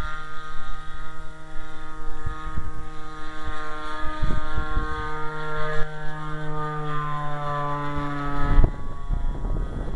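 A radio-controlled model plane's converted 30cc two-stroke trimmer engine runs steadily in flight as a drone with a slight waver in pitch. Wind buffets the microphone with low thumps. The drone cuts off sharply near the end, leaving rough wind noise.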